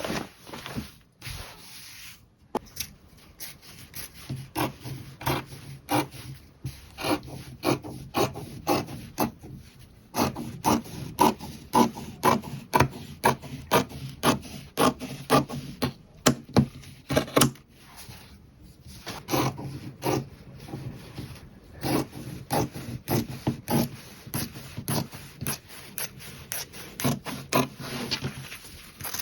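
Rhythmic rubbing, rasping strokes, about two a second, in several runs broken by short pauses, with a low hum under the strokes.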